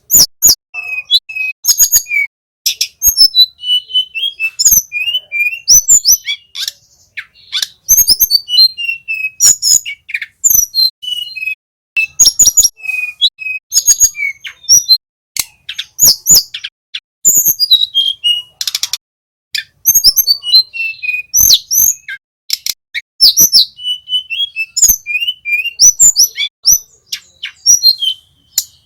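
Male tledekan gunung flycatcher singing continuously: rapid phrases of high, gliding whistled notes broken by many short, sharp clicking notes.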